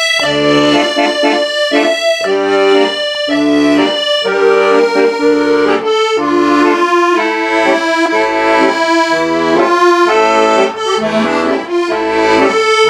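Solo accordion playing the climactic passage of a song, with a sustained right-hand melody over left-hand bass notes and chords.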